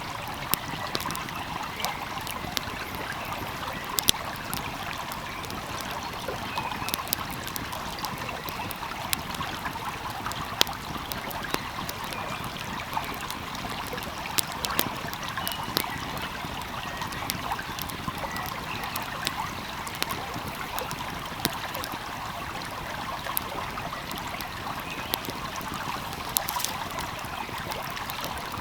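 Steady rush of a flowing stream, with a wood fire crackling over it in irregular sharp pops.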